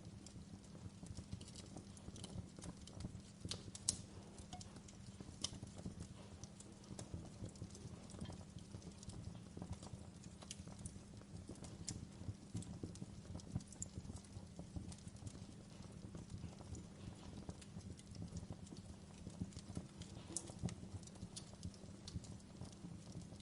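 Wood fire in a fireplace crackling: irregular sharp pops and snaps over a steady low rumble, with one louder pop about four seconds in.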